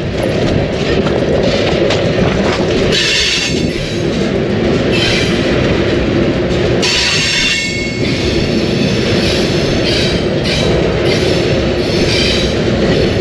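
Freight train rolling, heard from the end platform of one of its cars: a steady rumble of wheels and couplings, with several bouts of high wheel squeal about every two seconds.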